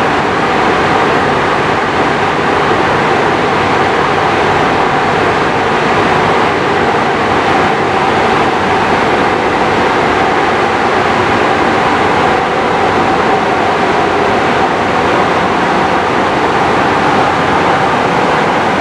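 Train running past close by: a loud, steady rush of wheel and rail noise with a faint steady whine in it.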